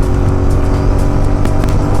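Royal Enfield Continental GT 650's parallel-twin engine running steadily under way through an aftermarket exhaust, with background music playing over it.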